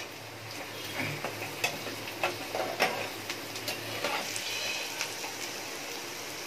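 Chopped onions sizzling in hot oil and ghee, being sautéed toward golden brown, with a spoon clicking and scraping against the pan now and then as they are stirred.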